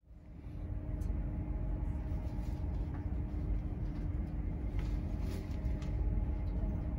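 Passenger train heard from inside the carriage as it pulls out of a station: a low, steady running rumble with a steady hum over it and a few faint ticks. The sound fades in over the first half second.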